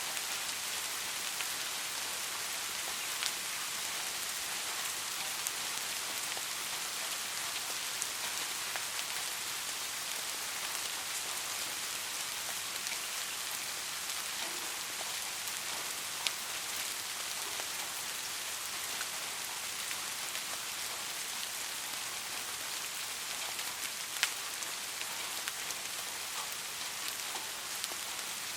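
Steady rain falling, an even hiss with a few sharper single drop ticks now and then.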